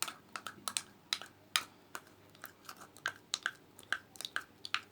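A small utensil clicking and scraping against a small container as petroleum jelly and lipstick are stirred together. The taps come quick and irregular, about two or three a second.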